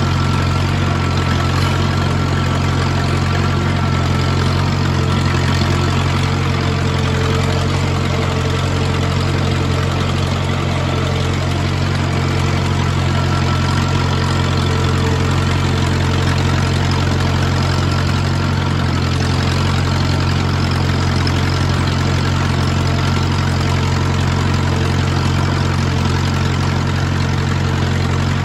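1940s Allis-Chalmers Speed Patrol road grader's engine running at a steady, even speed.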